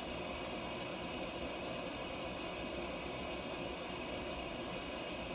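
Soto Stormbreaker liquid-fuel stove burner running on barbecue lighter fluid under bottle pressure, a steady, even hiss.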